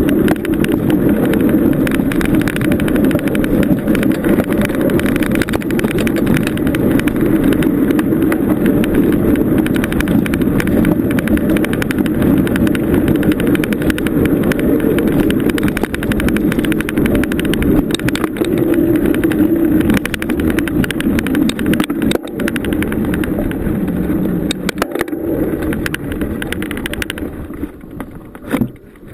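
Steady rolling noise of a bicycle ridden along a dirt trail, with tyre rumble and rattle carried up to the camera. It eases off near the end.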